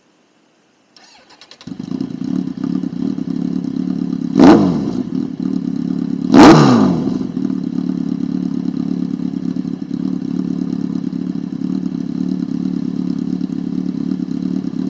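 Kawasaki Z1000 inline-four motorcycle with aftermarket Leo Vince exhausts starting up, catching after a second of cranking and settling into a loud, steady idle. The throttle is blipped twice, about two seconds apart, each rev falling quickly back to idle.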